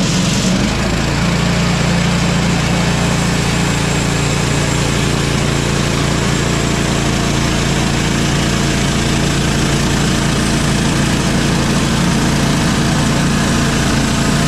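Woodland Mills portable bandsaw sawmill running steadily with its gas engine under load as the band blade cuts through a log. The blade is newly fitted and cutting easily.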